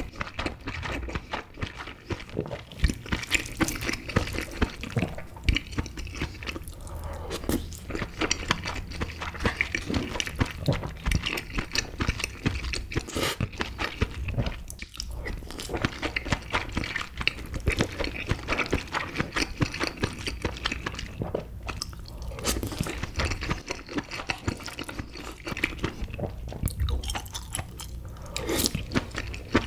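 Close-miked chewing and wet mouth sounds of a person eating king crab meat: irregular smacking and squishing clicks as each mouthful is chewed.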